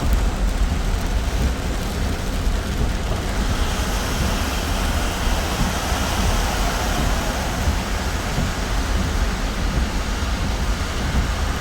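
Steady, loud noise of a heavy rainstorm and flooding water, with a strong low rumble throughout.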